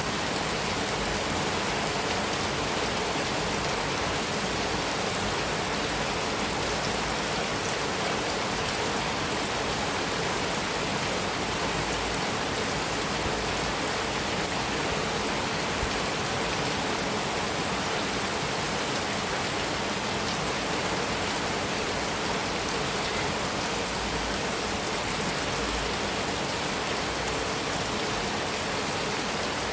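Heavy rain falling steadily on a metal roof, an even hiss of drops with no thunder.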